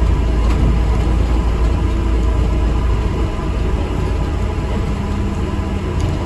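An ADL Enviro400 MMC double-decker bus underway, heard from inside the cabin, with a deep engine and road rumble. The rumble eases about halfway through, and a steady low hum comes in near the end.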